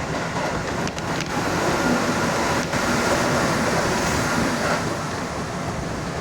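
Keihan Railway local train running between stations, heard from inside the front car: a steady rush and rumble of wheels on rail, with a faint steady whine above it.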